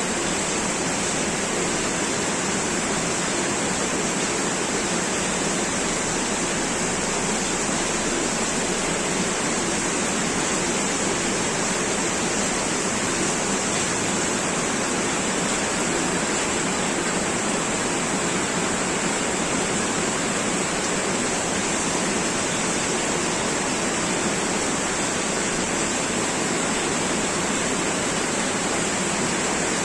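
Heavy downpour of rain: a dense, steady hiss that does not let up.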